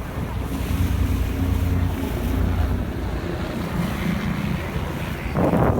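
Wind buffeting the microphone on a moving ferry, over the low steady rumble of the ferry's engine and the rush of water. A stronger gust comes in near the end.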